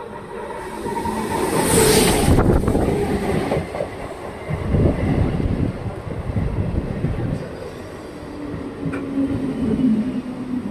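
Indian Railways 12-coach electric local train (EMU) approaching and running past close by, its wheels clattering over the rail joints under a heavy rumble. A loud hiss rises about two seconds in. A low steady whine comes in near the end.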